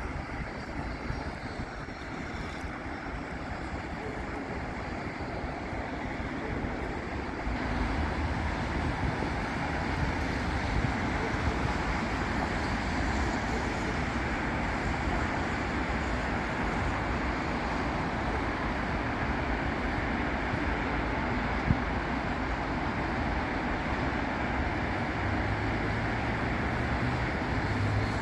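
Continuous road traffic on a busy city avenue, cars and buses passing, growing louder about a quarter of the way in. Near the end a heavy vehicle's engine adds a low drone.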